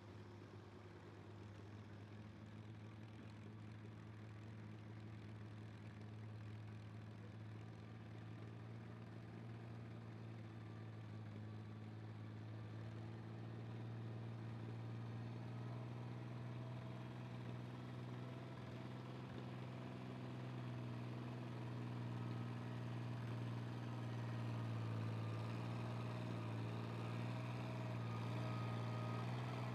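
A vehicle engine running at a steady, low pitch, growing gradually louder as it comes closer.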